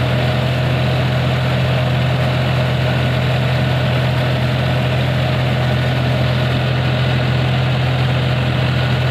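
John Deere 5050D tractor's three-cylinder diesel engine running steadily at idle, with a deep even hum.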